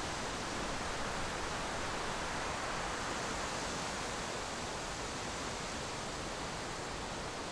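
Steady rushing wind and road noise from a vehicle driving along the road, with no engine note or other event standing out.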